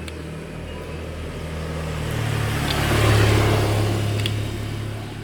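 Motor vehicle engine running steadily, swelling louder over about a second to a peak about three seconds in, then fading back down.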